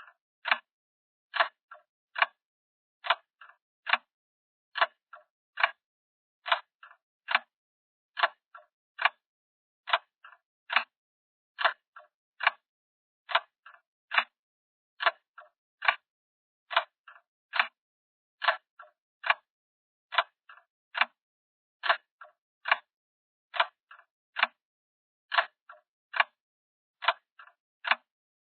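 Clock ticking sound effect: a pair of sharp ticks and a fainter tick, repeating evenly a little under every two seconds.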